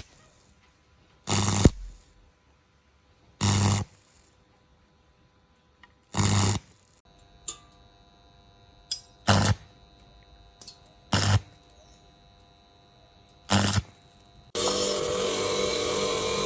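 A powered machine run in six short bursts of about half a second, a few seconds apart, then switched on and left running steadily near the end.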